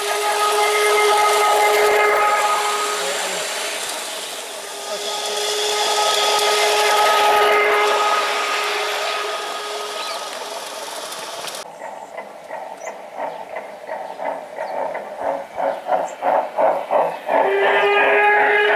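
G scale model steam locomotive's sound unit blowing a steam whistle over a hiss of steam, twice. A little past the middle the hiss cuts off and steam chuffs begin, quickening, before the whistle sounds again near the end.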